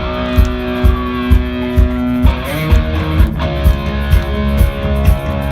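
Rock band playing live without vocals: held electric guitar chords over bass, with a steady kick drum about twice a second; the chord changes about two seconds in.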